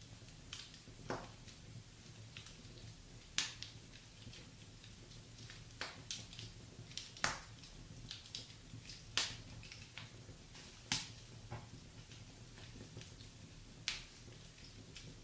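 Wood fire crackling in a fireplace: irregular sharp pops and snaps, a few louder ones every couple of seconds, over a faint low hiss.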